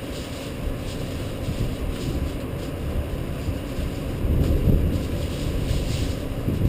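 Rainstorm: a steady low rumble that swells briefly about four seconds in, with scattered rain ticks.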